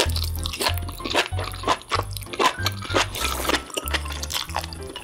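Added mukbang eating sound effects: a quick run of crunching, wet chewing bites, over background music with a pulsing bass line.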